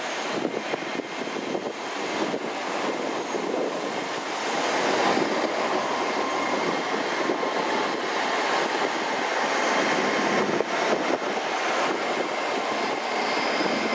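GWR Class 802 bi-mode train 802 103 running past: a steady rumble of wheels on rail with scattered clicks, growing louder about four seconds in as the carriages draw level.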